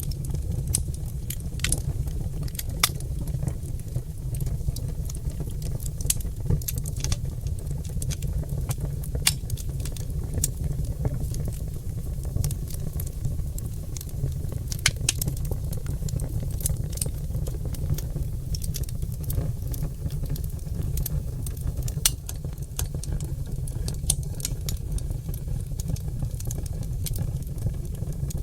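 Oak logs burning in a fireplace, crackling with many irregular sharp pops and snaps over a steady low rumble of the flames.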